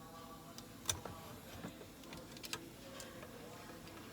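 A few sharp, irregular plastic clicks and knocks as wiring harness connectors and clips are worked loose from the steering column.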